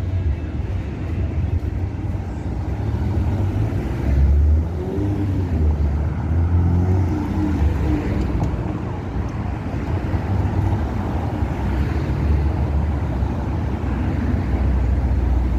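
City street ambience of passing car traffic, a steady noise with heavy low rumble from wind on the microphone. A few faint voices of passers-by come through near the middle.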